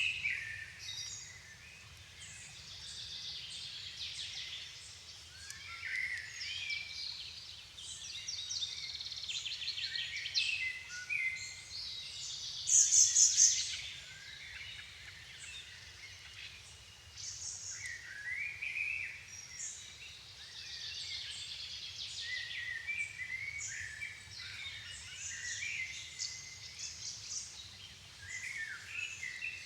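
Dusk chorus of several songbirds: overlapping songs, calls and trills from different birds, with one loud, high trill about 13 seconds in.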